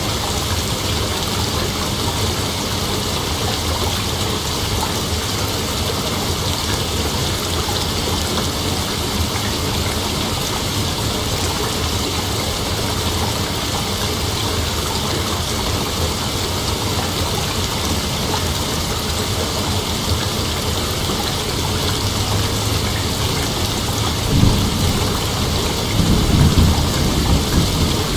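Steady, dense outdoor night ambience, an even hiss spread across high pitches, with two low rumbles swelling up near the end.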